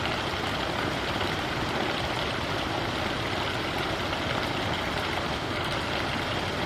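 Steady sound of running stream water, an even rush with no breaks or changes.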